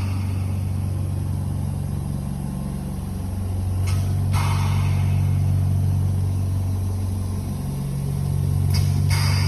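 A 20-litre PSA oxygen concentrator running: a steady low compressor hum, broken twice by a click and a short hiss of released air, about every four and a half seconds as its sieve beds switch.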